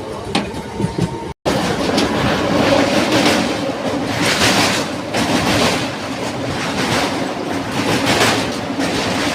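Suburban electric local train running along the line, heard from inside the coach: a loud steady rumble and rattle of wheels on rail, with a clickety-clack from the rail joints. The sound cuts out for an instant about a second in.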